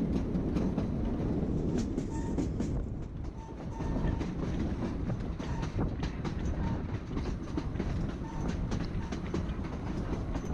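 Narrow-gauge passenger train behind a K-36 class 2-8-2 steam locomotive running, a steady rumble with the wheels clicking and clattering over the rails.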